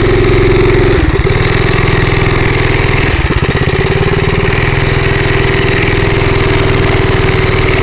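Bonanza minibike's small single-cylinder engine running steadily while riding, with brief dips in the engine note about a second in and again about three seconds in.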